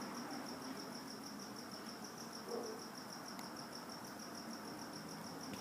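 A cricket chirping faintly in a steady, rapid run of high-pitched pulses.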